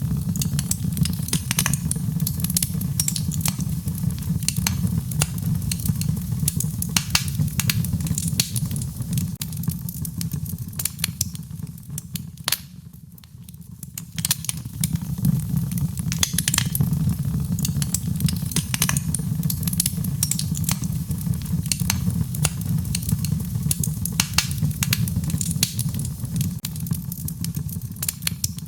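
Wood fire crackling in a fireplace, with many sharp pops over a steady low rumble, mixed with rain. The sound drops away briefly about halfway through.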